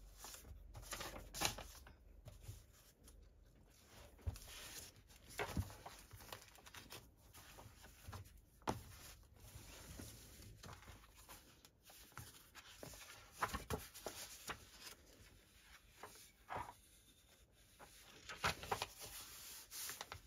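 Irregular small clicks, taps and rustles of objects being handled close by, with a few sharper knocks along the way.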